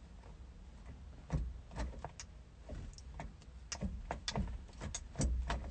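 Scattered light clicks and knocks, as of things being handled inside a small car's cabin, over a low steady rumble.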